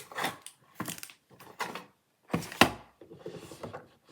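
Packaging and small toy pieces being handled and taken out of a toy box, rustling and knocking in several short bursts, the loudest about two and a half seconds in.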